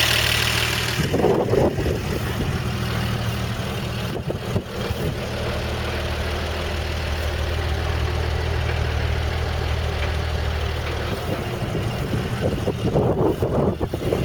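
The original 235 cubic inch inline-six of a 1955 Chevrolet 3100 pickup idling steadily, very quiet, with little of the tappet clatter these engines usually have.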